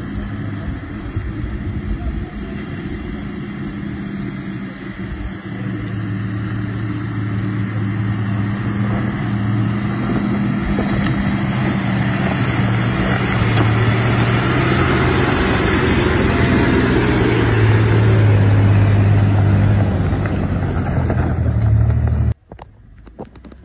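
A four-wheel drive's engine labouring at steady revs as it climbs a rutted dirt track, growing louder as it draws near. It stops abruptly near the end.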